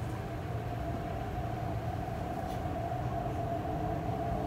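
MTR East Rail line R-train electric multiple unit running, heard from inside the carriage: a steady low rumble with a steady whine held throughout.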